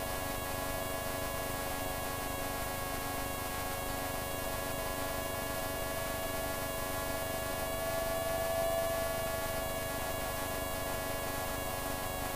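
Light aircraft engine running steadily in cruise, heard as a constant drone of several steady tones under a hiss of static through the cockpit intercom, swelling briefly a little past halfway.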